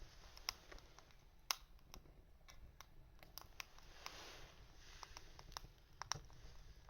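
Small wood fire crackling faintly, with irregular sharp pops and a brief soft rush about four seconds in.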